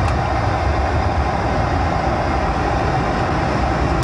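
Steady cockpit noise of a Boeing 727-200 climbing out just after takeoff: its three Pratt & Whitney JT8D turbofans at takeoff thrust and air rushing over the nose, with a low rumble and a faint steady hum.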